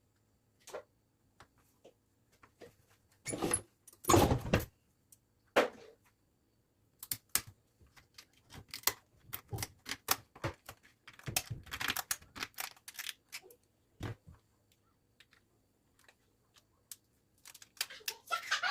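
Irregular light clicks and taps of objects being handled, with a louder clatter about four seconds in and a busy run of clicks in the middle.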